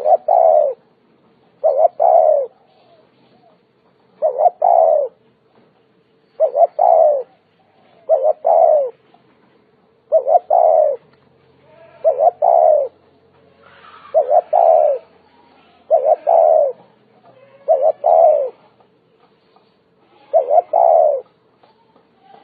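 Spotted dove cooing: a phrase of a short note followed by a longer, lower one, repeated about every two seconds.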